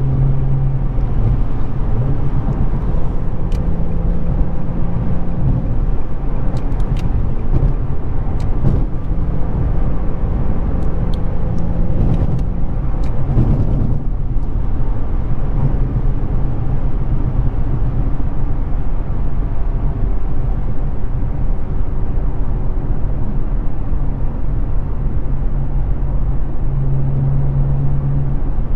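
2006 Infiniti G35 coupe's VQ35DE 3.5-litre V6 through a Z1 touring exhaust, cruising at freeway speed with tyre and road noise under it. The low exhaust drone swells and fades several times.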